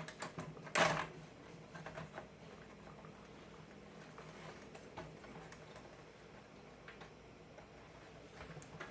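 Small clicks and taps from the plastic parts of a telephone being handled as its knobs are fitted and lined up. There is a cluster of clicks in the first second, then only occasional faint ticks over a low steady hum.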